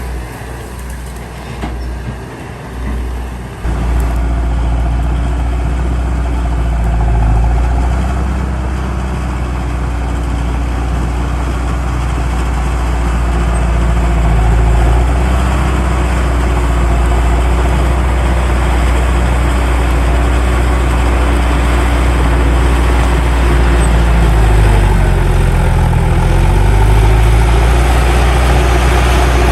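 Heavy diesel earthmoving machinery engine running steadily under load, growing louder about four seconds in, with its pitch rising and falling for a few seconds near the end.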